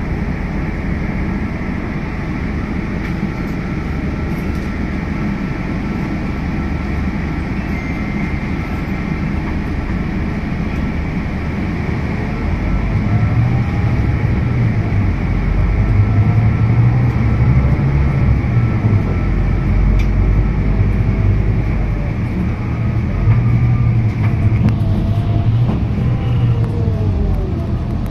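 Scania K320UB hybrid bus under way, heard from inside: a steady drone with fixed high tones. About halfway through the low rumble grows louder, and several whines rise and fall in pitch as the bus speeds up and slows down.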